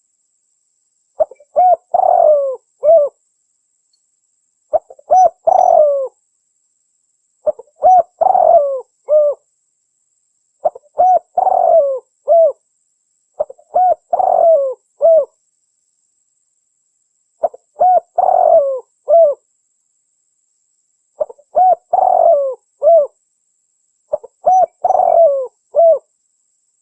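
Spotted dove (tekukur) cooing: a short phrase of several coos repeated eight times, about every three seconds, with dead silence between phrases. It is a lure recording of the call, played to draw wild doves.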